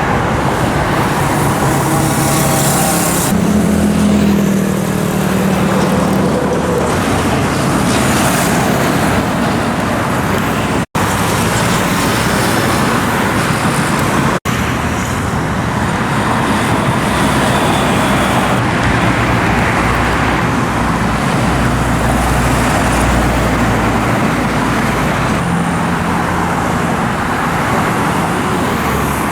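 Busy road traffic, mostly motorcycles with cars among them, engines running and passing continuously. A few engine notes rise as bikes pull by early on, and a deeper, heavier engine rumble comes about twenty seconds in. The sound cuts out for an instant twice near the middle.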